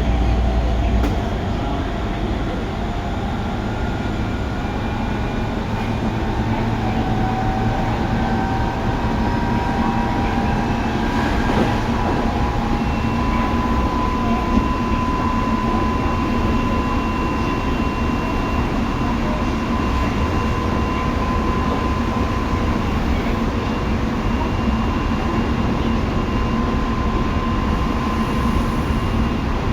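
Tobu 9050 series electric train running, with a steady rumble of wheels on rail. The traction motors' whine climbs in pitch over the first dozen seconds as the train gathers speed, then holds at a steady pitch.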